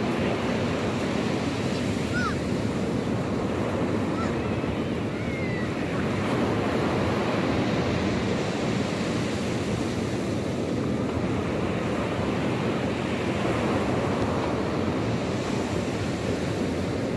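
Sea waves washing steadily onto the shore, with wind buffeting the microphone. A few faint short high calls sound about two and five seconds in.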